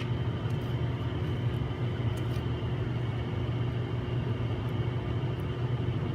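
Steady low machine hum from repair-bench equipment, with a few faint light clicks and ticks as the film and glass are handled.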